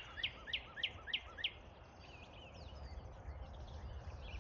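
Northern cardinal singing a run of about six quick down-slurred whistles that ends about a second and a half in, with other birds calling faintly afterwards.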